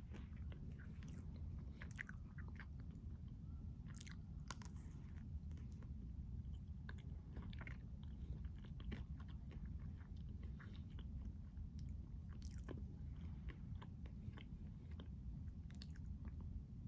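Close-miked biting and chewing of a Keto Pint Triple Chocolate Crunch Bar, heard as scattered small crunches and mouth clicks over a steady low hum.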